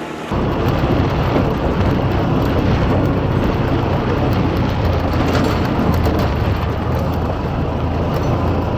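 Utility vehicle engine running with a steady low rumble that starts abruptly just after the start and holds even throughout.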